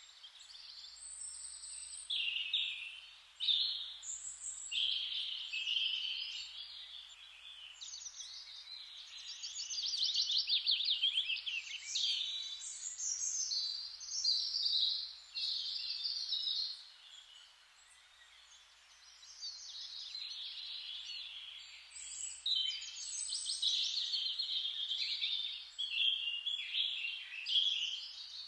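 Several songbirds singing at once: overlapping chirps and fast trills, with a short lull in the middle.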